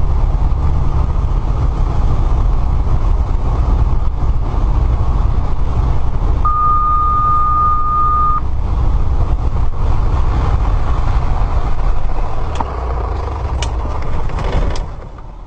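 Steady low rumble of an aircraft's engine and airflow, heard in the cockpit. A single steady beep lasts about two seconds midway, and a few sharp clicks come near the end.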